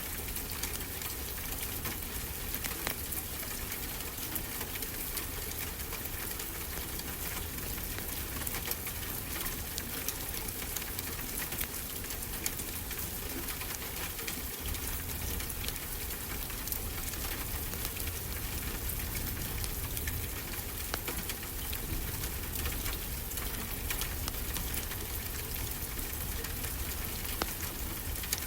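Fireplace fire crackling with many small irregular pops over a steady low wash of ocean surf.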